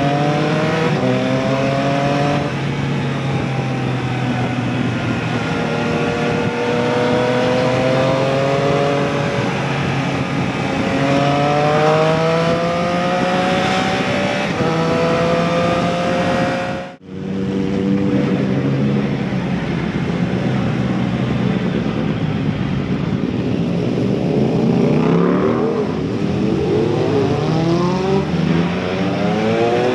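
Motorcycle engine and exhaust under way, rising in pitch as it accelerates, dropping at each gear change and climbing again, over wind and road noise. The sound cuts out for a moment about halfway through, then the engine carries on.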